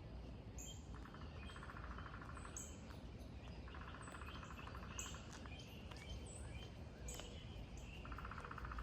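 Songbirds chirping with short high calls, while a rapid pulsed trill of about one and a half seconds repeats three times.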